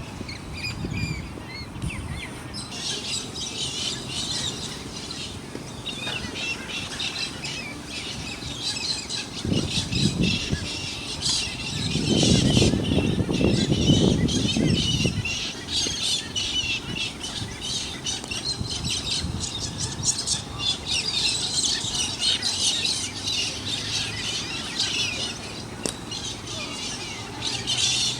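Many birds chirping and squawking together in a dense, high chatter. Roughly halfway through, a low rumble rises for a few seconds and is the loudest sound.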